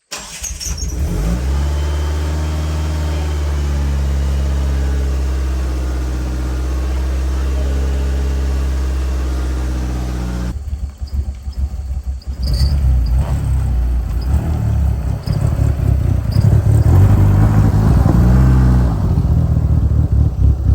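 A second-generation DSM's engine running steadily. About halfway through, it turns louder and rougher.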